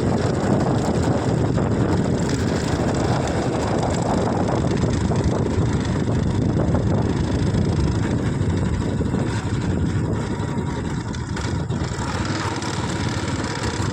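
A vehicle running steadily, giving an even, unbroken noise.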